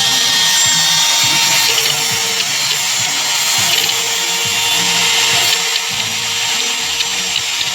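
Electric power tool running steadily during speaker-cabinet woodwork: a constant motor whine under a dense hiss.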